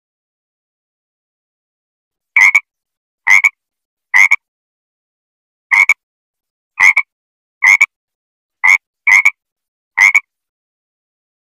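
Frog croaking: nine short, loud croaks at uneven intervals, beginning about two seconds in.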